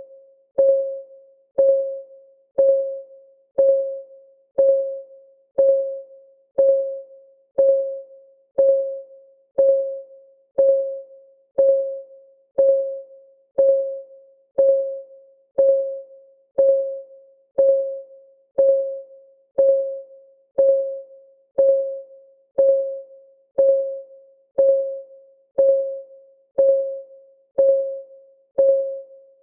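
Countdown timer's clock-ticking sound effect: an even tick once a second. Each tick is a short, single-pitched click that rings briefly and fades before the next.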